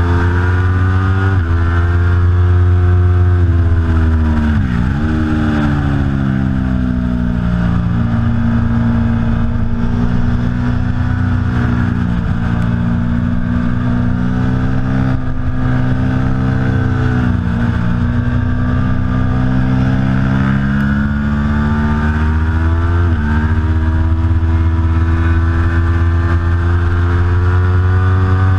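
Aprilia Tuono V4 Factory's V4 engine being ridden hard, its pitch climbing and breaking at quick gear changes. The engine note dips sharply and climbs back about five seconds in, and again shifts about 23 seconds in before rising towards the end.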